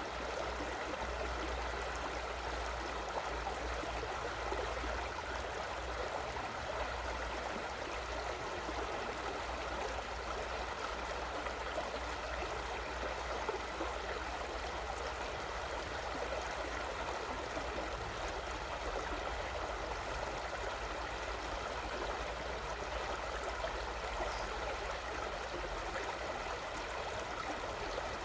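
River babbling steadily, with a low steady rumble underneath.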